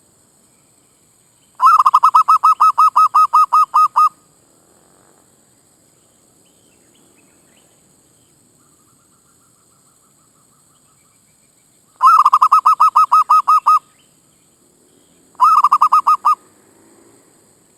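Zebra dove calling: a quick string of even, pitched notes, about six a second, given three times, the last run shorter.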